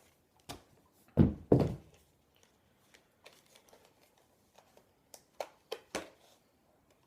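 Handling and unwrapping the packaging of a pair of BMX grips: two heavy thumps a little over a second in, then scattered light clicks and rustles of packaging.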